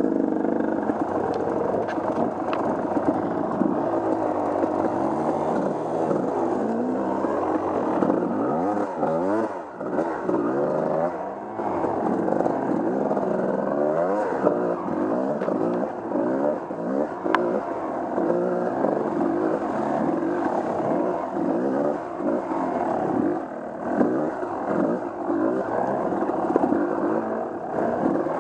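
Off-road vehicle engine running under load while being ridden on a trail, its pitch rising and falling over and over as the throttle is worked, with occasional clatter and knocks.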